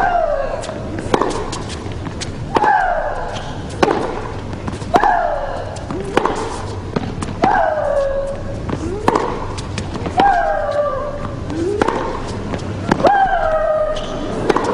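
Tennis rally: racket strings hitting the ball about every 1.2 s, and on every other shot a long, high shriek-grunt from one player that falls in pitch, with a shorter rising vocal sound before the opponent's shots.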